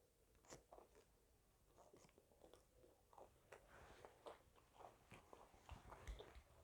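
Faint, close-miked biting and chewing of a KFC Tower Burger: soft crunches and irregular mouth clicks.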